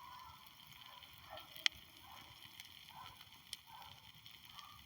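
Outdoor fire crackling faintly, with two sharper pops about two seconds apart.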